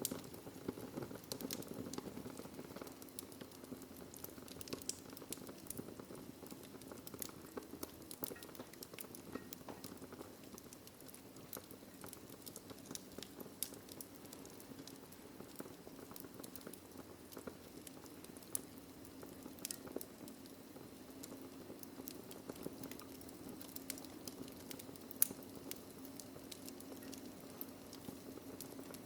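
Wood fire burning in a fireplace: a steady low rush of flames with frequent small crackles and snaps, and one louder pop about 25 seconds in.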